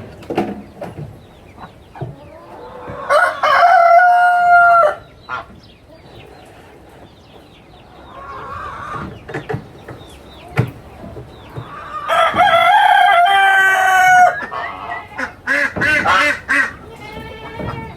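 A rooster crowing twice, a long call each time, about three seconds in and again about twelve seconds in, with shorter clucking calls in between.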